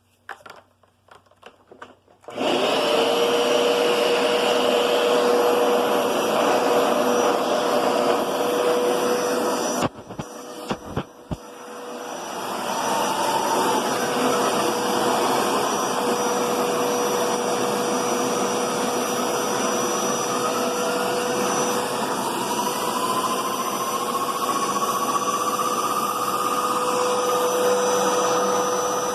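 Hoover Powerscrub Deluxe upright carpet cleaner switched on about two seconds in, its motor spinning up to a loud steady whine. Around ten seconds in it drops out briefly with a few clicks, then builds back up and runs on steadily.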